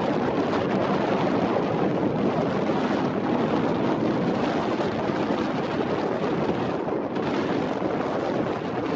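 Strong blizzard wind blowing steadily, rushing across the microphone.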